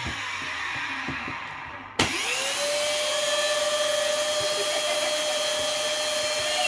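Budget cordless stick vacuum's motor spinning down with a falling whine, then about two seconds in a click and the motor starts again, spinning up to a steady high whine. It comes on by itself as soon as the battery is on it: a faulty switch.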